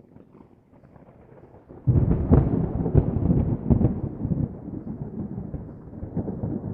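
Thunder: a faint low rumble, then a loud, sudden clap about two seconds in with a rapid series of crackles, rolling on as a long rumble that slowly fades.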